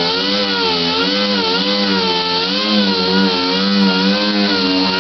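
Power tool running continuously during body work on bare sheet metal, its pitch dipping and rising about once a second as the load on it changes.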